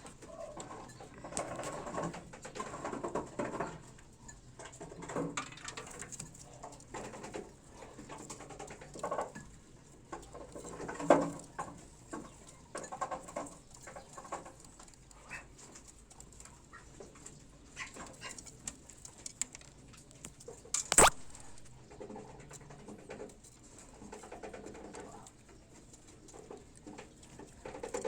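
Pigeons cooing now and then over shuffling, scratching and pecking noises, with a sharp click about 21 seconds in.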